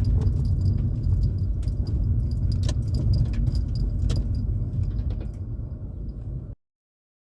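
Car driving slowly, with a steady low road and engine rumble inside the cabin and light jangling rattles over it. The sound cuts off suddenly near the end.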